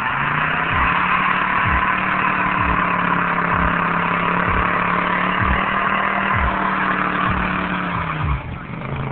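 Pickup truck doing a burnout: the engine revs up and is held at steady high revs for about eight seconds while the rear tyres spin and squeal, then the revs drop near the end.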